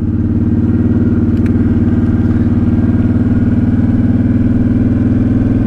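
Honda Shadow Spirit 750's V-twin engine running at a steady speed, its even note holding throughout.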